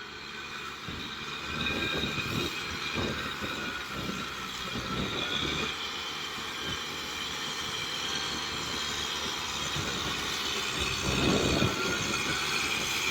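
Kubota M6040SU tractor's diesel engine running under load with a rotavator turning, a steady mechanical whine over it. Uneven low rumbles come and go, strongest in the first half and again about eleven seconds in.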